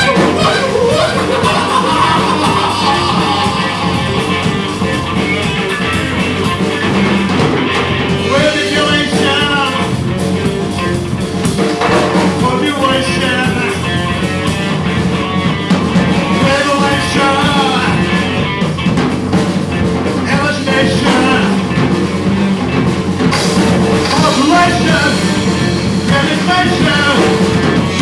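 Live rock band playing loudly, with drums, guitars and a singing voice.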